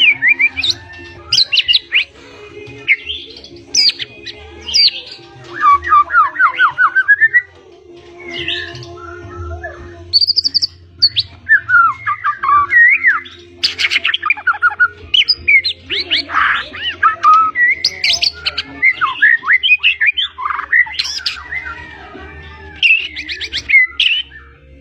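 White-rumped shama (murai batu) of the pied 'blorok' form singing vigorously. It pours out a long, varied string of loud whistles, slurred rising and falling notes and rapid runs of repeated notes, with short pauses between phrases. These are the mimicked 'isian' phrases that are prized in a trained singing bird.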